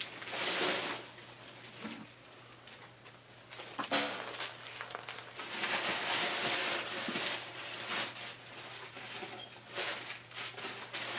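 Paper and card being handled: rustling in patches, with a few light knocks and clicks, as a handmade paper mini album is closed and set aside.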